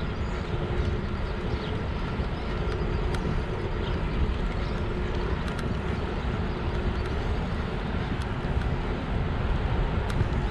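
Wind buffeting the microphone, with tyre and road noise from a moving electric bike: a steady rush with a faint steady hum underneath and a few small ticks.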